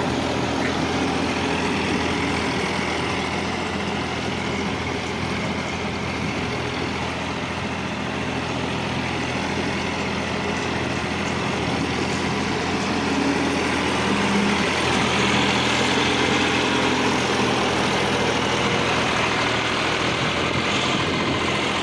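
An old Kirloskar tractor's air-cooled diesel engine running steadily, growing a little louder for a few seconds past the middle.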